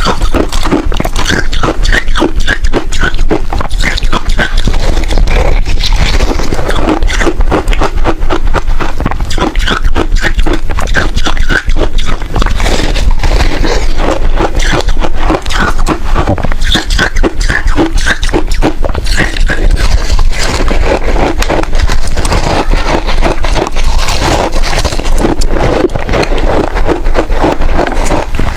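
Close-miked chewing and crunching of freezer frost ice: a dense, continuous run of crisp crunches and scraping mouth sounds.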